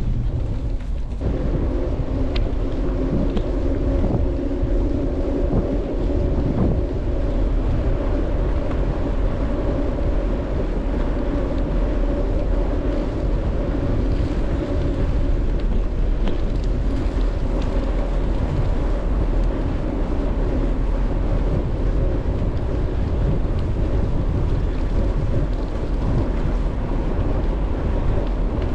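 Wind rushing over the microphone of a moving bicycle, with the steady hum of its tyres rolling on smooth pavement.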